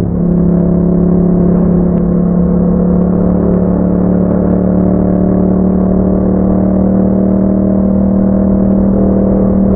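A 2021 Yamaha MT-07's 689 cc parallel-twin engine running through an Akrapovič exhaust while riding. A gear change comes right at the start, where the revs drop, and then the engine holds nearly steady revs under way.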